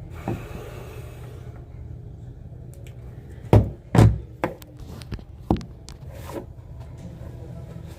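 A few heavy thumps and knocks, the two loudest about half a second apart, followed by smaller knocks, over a steady low rumble.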